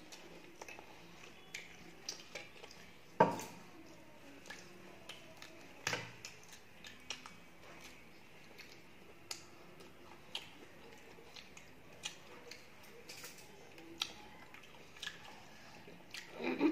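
Close-miked chewing of a chicken burger, with scattered small mouth clicks and smacks. Two louder knocks come about three and six seconds in, and a brief voice near the end.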